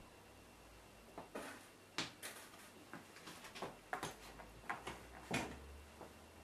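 Faint, irregular rustles and small clicks of hands working hair into an updo, the loudest about two seconds in and again near the end.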